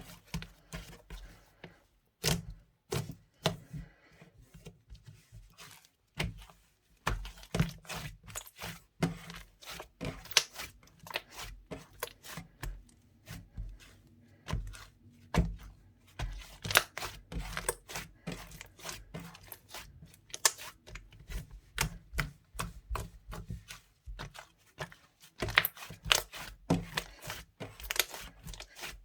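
Slightly sticky mint-chocolate slime mixed with soft clay being squished, stretched and poked by hand, giving fast, irregular sharp clicks, snaps and crackles.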